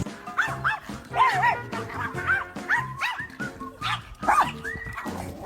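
A dog making a run of short, high yips and whines, each call rising and falling in pitch, over background music.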